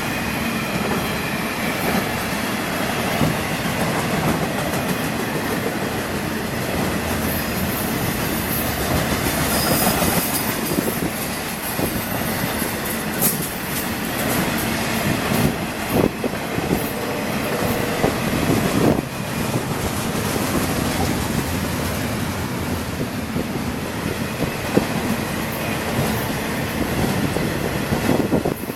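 Cars of a long intermodal freight train rolling past: a steady rumble of wheels on rail with clattering over the joints and a few sharp knocks. A brief wheel squeal comes about two thirds of the way through.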